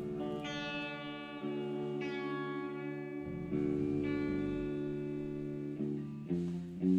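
Guitar playing the opening chords of a band's song live. Each chord rings out for a second or two before the next.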